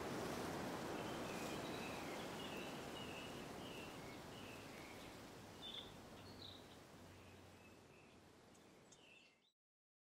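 Birds chirping, a series of short high calls, over a steady outdoor hiss that fades out gradually and goes silent near the end.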